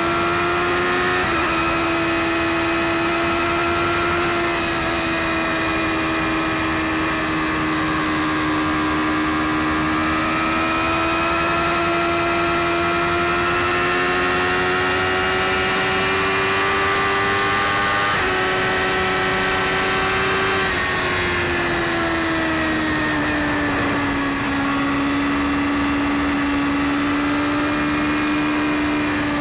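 BMW S1000RR inline-four sport bike engine running at steady high revs while cruising at speed, its note slowly climbing for most of the stretch, then dropping as the throttle eases about two-thirds of the way through, over a constant rush of noise.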